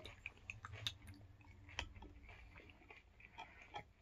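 Faint close-up chewing of a mouthful of Oatmeal Crisp cereal in milk, with scattered soft crunches and clicks.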